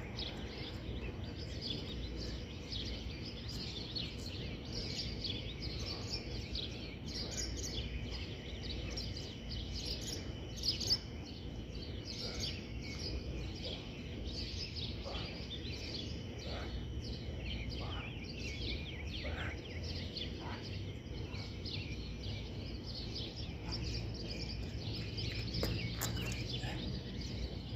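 Songbirds chirping in a morning chorus, many short high calls overlapping throughout, over a steady low background rumble.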